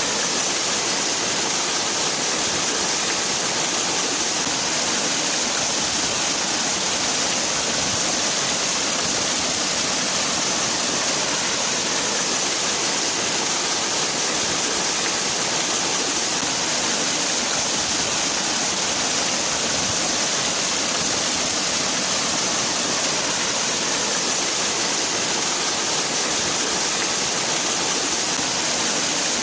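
Waterfall: water falling and splashing in a steady, unbroken hiss-like rush, strongest in the high treble.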